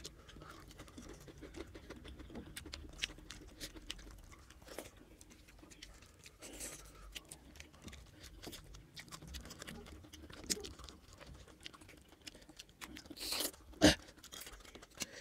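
Close-up eating sounds: chewing mouthfuls of mutton curry and rice, with many small wet clicks. There are a few sharper clicks and a louder noisy burst near the end.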